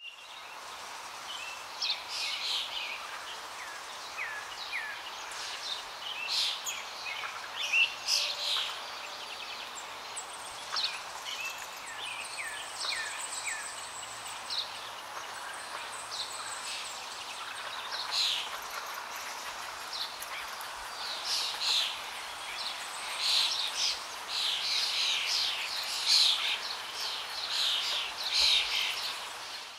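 Several wild birds singing and calling throughout: many short chirps and quick falling notes, busiest near the end, over a steady background hiss.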